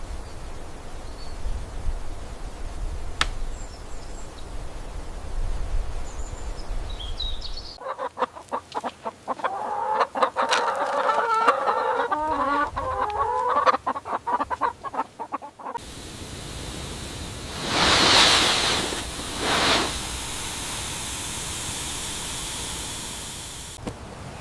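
Chickens clucking, mixed with a run of sharp clicks, between a stretch of low rumble with a few faint high bird chirps and a stretch of steady hiss that swells twice.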